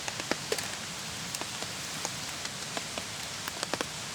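Steady rain falling, an even hiss with scattered sharp drop impacts at irregular moments.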